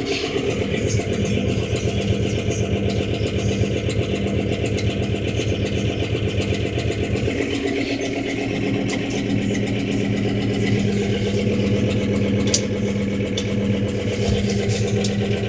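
John Deere 5325 tractor's diesel engine running steadily at a constant speed.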